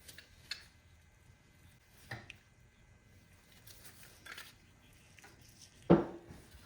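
Metal hand plane parts being handled on a hard surface: a few light clinks and knocks, then one louder clunk with a short ring near the end.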